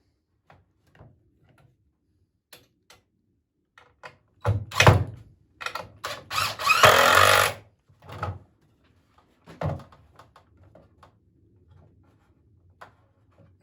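Poplar boards knocking and thudding as swing slats are handled and set into place. A cluster of loud knocks about halfway through is followed by a harsher noisy sound lasting about a second, then a few scattered knocks.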